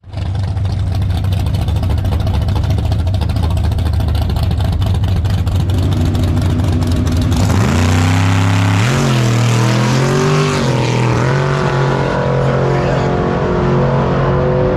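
Race car engines idling at a drag strip starting line, a turbo LS-swapped Mustang and a Chevy S-10 pickup side by side. About seven and a half seconds in, an engine revs up, wavers, then holds steady at higher revs on the line.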